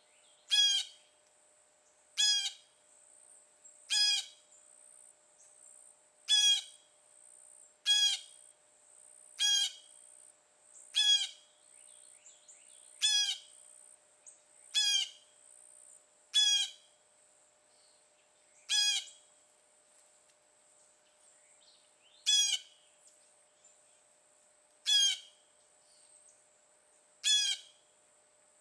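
A bird calling over and over, one short, loud call every one and a half to two and a half seconds, each dipping in pitch at its end, with a longer pause about two-thirds of the way through. A steady high-pitched hum runs underneath.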